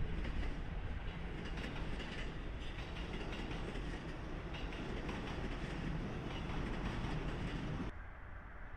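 E257 series electric train running on the track: a steady rumble with faint wheel clicks over rail joints. The sound drops away suddenly about eight seconds in.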